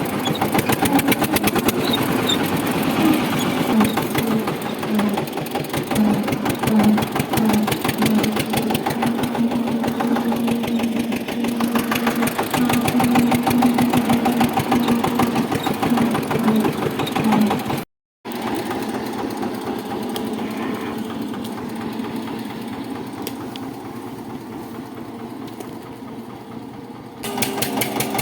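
Tractor engine running with a fast, even chug. The sound cuts out for an instant about two-thirds through, comes back quieter, and grows louder again near the end.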